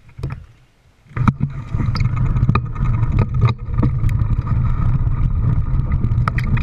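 A vehicle running with a steady low rumble, starting about a second in, with frequent knocks and rattles over it.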